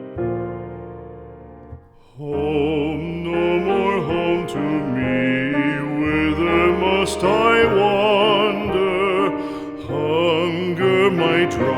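Slow song: a few soft piano notes, a short pause, then a solo voice with wide vibrato comes in about two seconds in and sings over piano accompaniment in a classical, operatic style.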